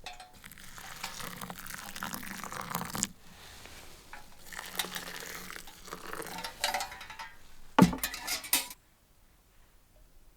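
Camp gear being handled by hand: rustling and crinkling with clinks of cookware, in two stretches, then a sharp clatter about eight seconds in before it goes quiet.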